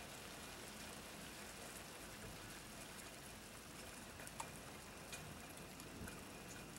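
Steady rain falling during a thunderstorm: a faint, even hiss with scattered light drip ticks.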